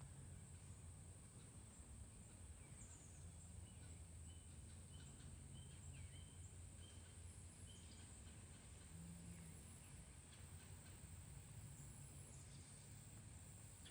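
Near silence: faint outdoor background with a steady low hum and high hiss, and a few faint, short high chirps about a third of the way in, like a small bird.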